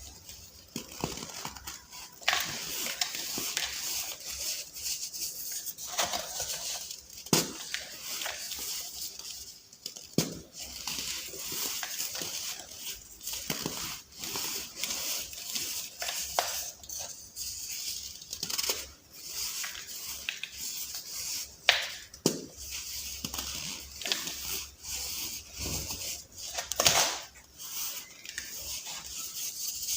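Soft balls of baking soda being crushed and crumbled: a continuous gritty crunching with irregular crackles and several louder sharp cracks.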